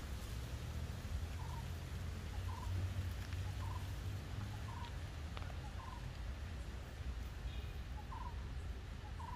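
A bird calling: a short call repeated about once a second, with a steady low rumble underneath.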